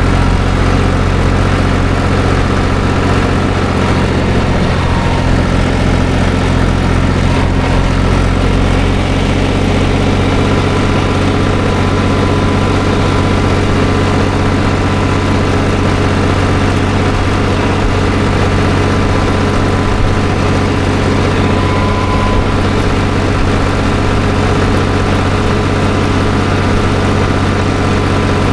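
Tractor engine running at a steady speed, heard close up from the driver's seat: an even drone with no change in pitch.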